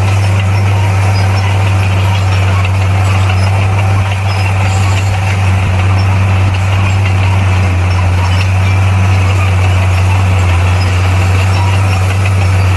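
Bulldozer's diesel engine running steadily, a constant low hum.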